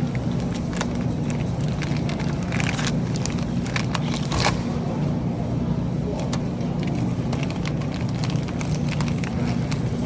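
Steady low mechanical hum, with scattered light clicks and knocks over it.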